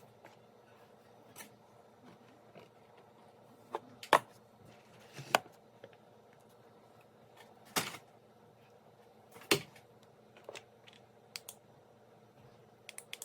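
Irregular clicks and knocks of small hard objects being picked up and set down, a handful of sharp clacks spread over several seconds against a low steady background hum.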